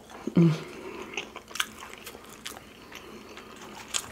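Close-up chewing and biting of food, with scattered wet clicks and crunches from the mouth. A short hummed voice sound comes about half a second in.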